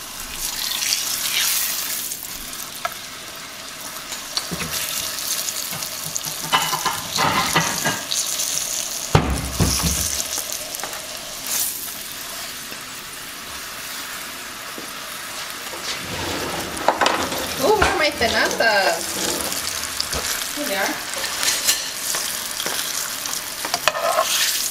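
Corn tortillas sizzling and crackling as they fry in hot seasoned chili oil in a skillet, with a dull thump about nine seconds in and the clicks and scrapes of tongs moving the tortillas near the end.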